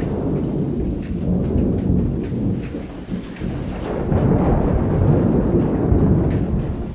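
Thunder rumbling long and deep, swelling again about two-thirds of the way through, with rain falling.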